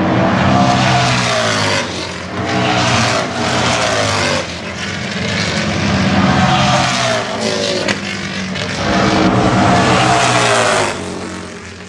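Harley-Davidson Road Glide bagger race bikes with big V-twin engines, running loud on track during practice. Several bikes pass one after another, their engine note rising and falling as they go by and change gear, and it fades near the end.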